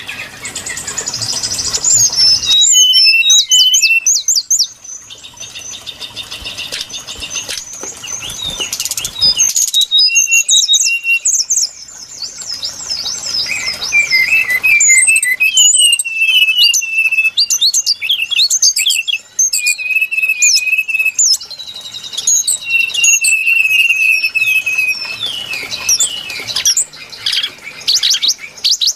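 Recorded song of a brown-chested jungle flycatcher played as a lure call: a loud, continuous run of quick varied whistles, rapid trills and chattering notes, with brief gaps.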